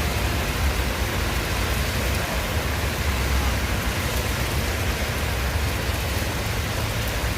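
Heavy downpour: a steady, even rush of rain with a low rumble underneath.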